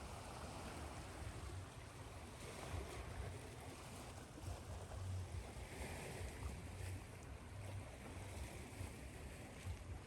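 Ocean waves washing in, a steady hiss of surf that swells and eases, blended with white noise and a low rumble.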